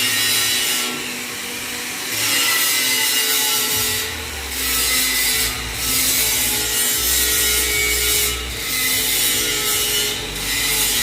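Chicken vacuum tumbler marinator running: a steady hum under a rushing, scraping noise that swells and dips every couple of seconds as the drum turns, with a low rumble joining about four seconds in.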